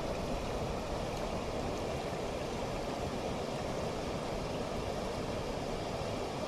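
Water rushing steadily over a cascade, a continuous even noise without breaks.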